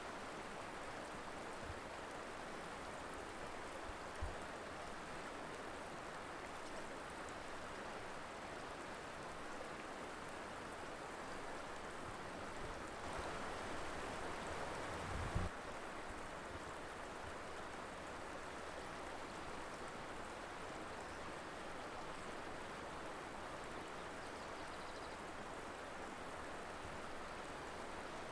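Steady rush of flowing river water from the Colorado River. Past the middle the rush swells slightly for a couple of seconds and ends in a brief low thump; a shorter low thump comes a few seconds in.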